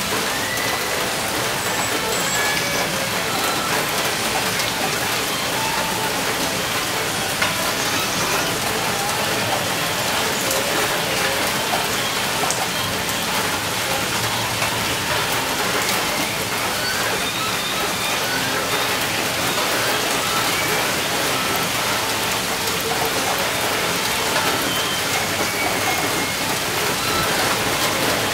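Heavy rain falling steadily: a dense, even hiss of drops without a break.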